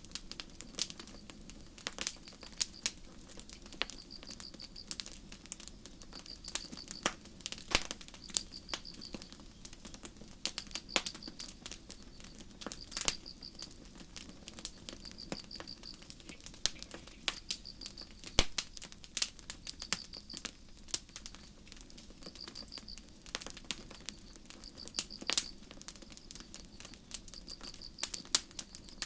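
Campfire crackling, with sharp pops at irregular intervals, while crickets chirp in short high trills every second or two.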